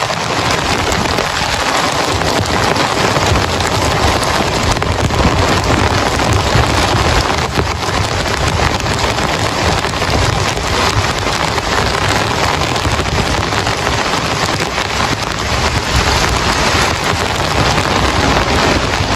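Heavy rain pouring steadily, a dense patter of many drops with a low rumble underneath.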